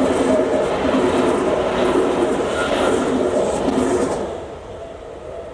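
Tokyu Toyoko Line electric train running past over a level crossing, a loud steady rumble that drops away about four seconds in as the train clears.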